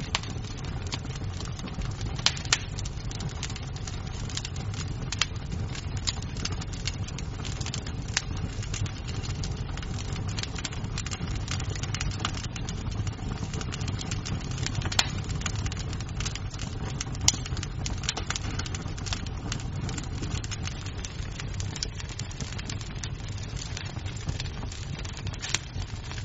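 Wood fire crackling in a fireplace: a steady low rumble of flame with constant small snaps and pops from the burning wood. A few louder pops stand out, about two seconds in, around the middle, and near the end.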